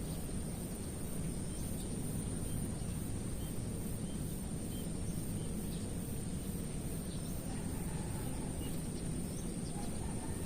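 Outdoor wild-nature ambience: a steady low background rush with a continuous thin high-pitched insect drone, and a few faint, scattered bird chirps.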